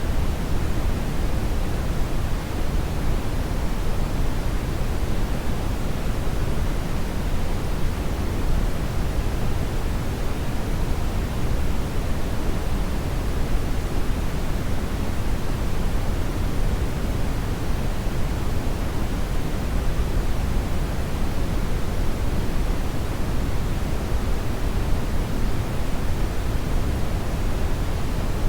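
Hair dryer running continuously: a steady, unchanging rushing noise weighted toward the low end.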